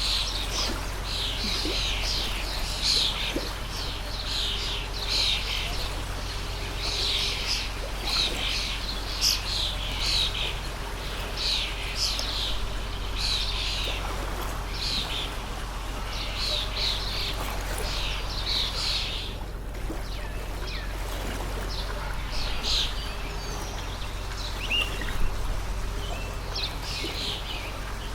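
Small birds chirping in quick, almost unbroken runs of short high notes, over the steady rush of a flowing stream.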